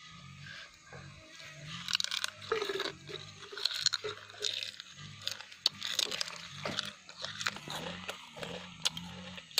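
Close-up chewing and crunching of grilled insects, with many sharp, crisp crunches coming thick and fast from about two seconds in.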